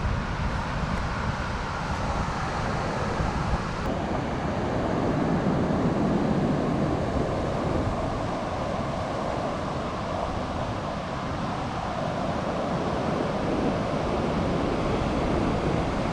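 Steady wind rush over the microphone with road and engine noise underneath, from riding a Suzuki V-Strom 1050XT motorcycle at speed.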